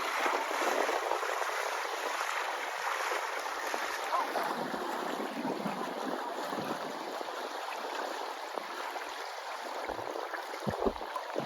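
Steady rushing and washing of water at the seashore, with a few brief low knocks near the end.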